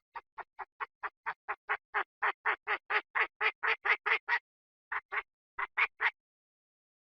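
Chinese francolin calling: a run of short, harsh notes at about four a second that grow steadily louder. A short pause comes about four and a half seconds in, then a few more notes. This is a recorded call of the kind played to lure the birds.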